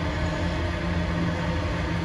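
Coal train's hopper wagons rolling past, a steady rumble of wheels on rail with a low hum running under it.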